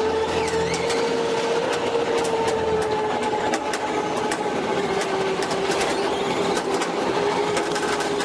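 Electric winch motor running under load, a steady whine that sags slowly lower in pitch as it pulls, with scattered sharp clicks over it.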